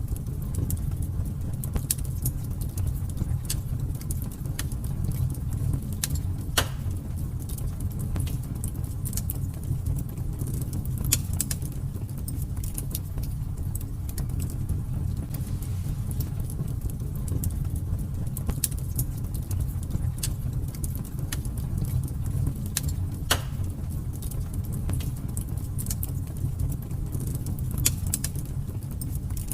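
Fire burning in a fireplace: a steady low rumble with scattered crackles and a few sharper pops.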